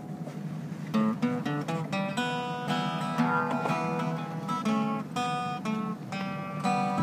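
Live acoustic plucked-string instruments playing an instrumental passage of an old jazz standard, a steady run of picked notes and strummed chords.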